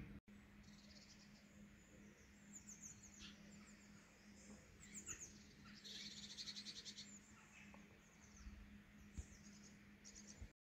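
Faint birdsong: small birds chirping in short runs of quick high notes every second or two, over a steady low hum.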